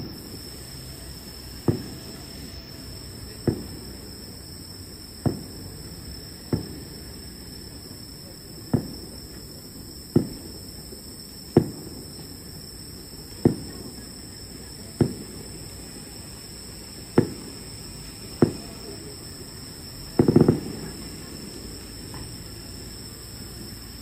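Distant fireworks shells bursting one after another, a sharp bang about every one and a half to two seconds, each trailing off briefly, with a quick cluster of several bangs near the end. A steady high-pitched whine runs underneath.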